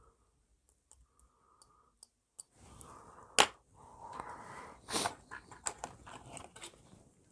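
Close-up scratching and clicking of a small tool against a plastic model figure, with one sharp click about three and a half seconds in and a few soft breaths before it.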